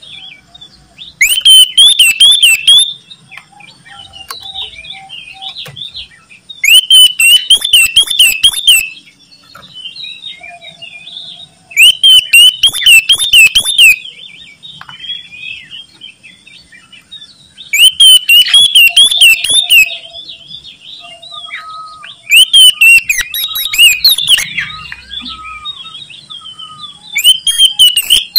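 Oriental magpie-robin (kacer) singing loudly: six bursts of rapid, repeated whistled phrases, each about two seconds long and roughly five seconds apart, with softer twittering and chattering between them.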